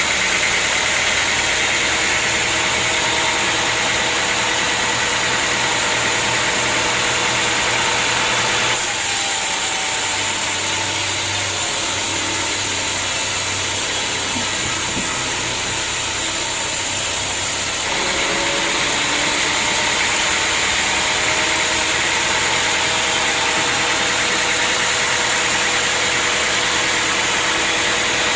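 An engine running steadily at a constant speed, with a strong high hiss over it. The sound changes abruptly twice, about a third and two thirds of the way through.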